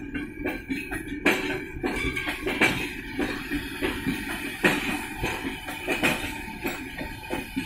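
Freight train of covered sliding-wall wagons rolling past, its wheels knocking irregularly over the rail joints with a steady rumble and a thin metallic ringing tone underneath.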